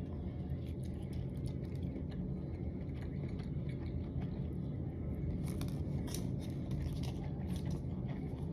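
Scattered light clicks and taps of utensils picking through a container of dry hot pot, over a steady low hum, with a quick cluster of clicks a bit over halfway through.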